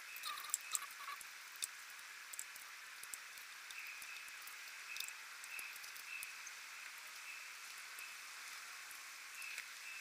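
Scattered light clicks and taps of a hand wrench and metal parts as a dirt bike carburetor is bolted back on, over a steady hiss.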